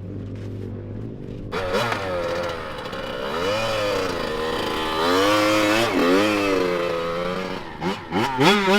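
Dirt bike engine idling, then revved over and over, its pitch climbing and dropping with each blip of the throttle, as the engine is warmed up.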